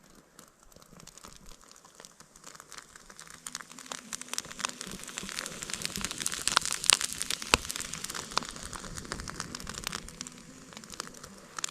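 Campfire tinder and kindling crackling as it catches, a dense run of small pops that grows louder toward the middle and eases slightly near the end.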